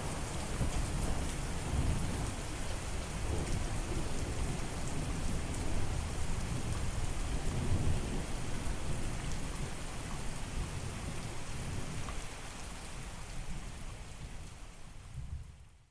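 Steady heavy rain with a low rumble of thunder beneath it, fading out over the last couple of seconds.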